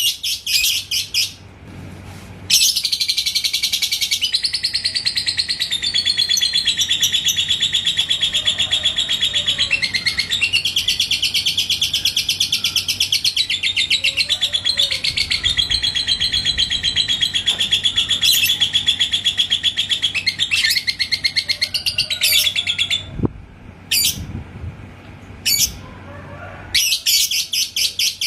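Lovebird 'ngekek': one long unbroken run of rapid, high-pitched chattering lasting about twenty seconds, with short chirp bursts before it starts and after it stops.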